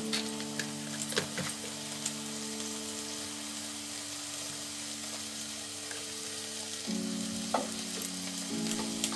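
Peeled aubergine and tomato sizzling in a little mustard oil in a kadhai on a gas flame: a steady frying hiss with a few light clicks. Soft background music with held notes runs underneath.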